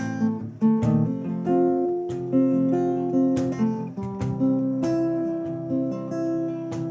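Acoustic guitar being strummed with sustained chords, strums landing about once or twice a second.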